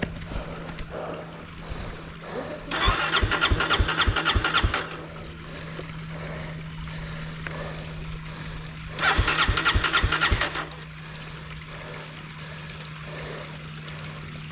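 Dirt bike electric starter cranking twice, each time for about two seconds, with a rapid even chugging and a high whine, and the engine not catching. A steady low engine hum runs underneath throughout.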